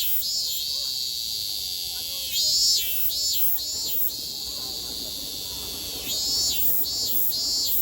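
Japanese summer cicadas singing: a steady high-pitched drone from the chorus, with a louder cicada breaking in twice with a phrase of three or four swelling pulses, about four seconds apart.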